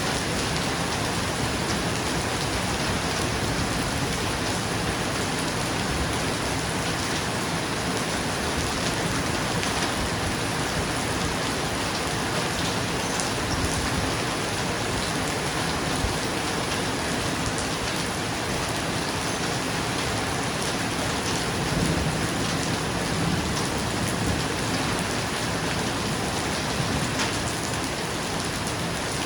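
Steady, dense rain falling on a roof, with a faint low rumble swelling briefly about three-quarters of the way through.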